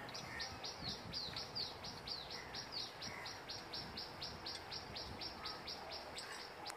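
A bird chirping in a fast, steady run of short, high, falling notes, about five a second, that stops shortly before the end.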